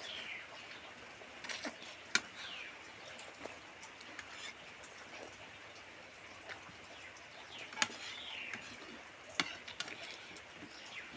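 A few sharp clicks and taps, typical of a spoon knocking a plate while eating. Between them a bird gives a few short chirps that fall in pitch.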